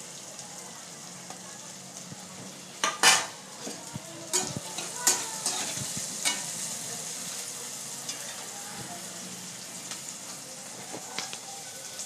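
Chopped onion, capsicum, ginger and garlic sizzling in hot oil in a kadai while being stirred with a spatula. Several sharp knocks and scrapes of the spatula against the pan come between about three and six seconds in, and the sizzle runs a little louder after that.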